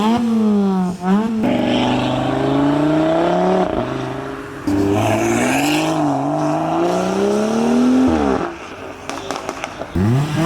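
Ford Fiesta engine revved in quick blips in the first second or so. Then a car engine runs steadily as it drives past, with a brief dip about four and a half seconds in. The engine note climbs and drops away about eight seconds in, and more quick revs come near the end.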